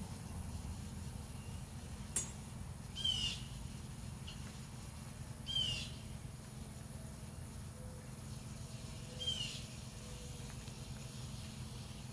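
A bird calling three times, a few seconds apart, each call short and sliding down in pitch. There is a single sharp click about two seconds in, over a steady low rumble.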